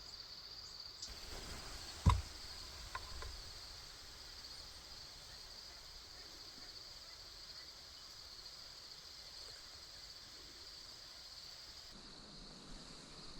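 A steady, high-pitched chorus of insects trilling continuously. One sharp knock sounds about two seconds in, with a couple of faint ticks just after.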